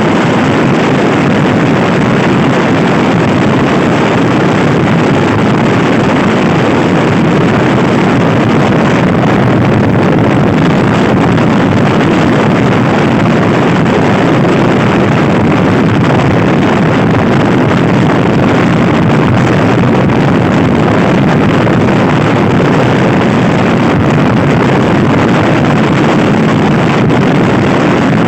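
Loud, steady wind noise rushing over the microphone of a Honda Scoopy-i scooter being ridden at speed, with the scooter running underneath.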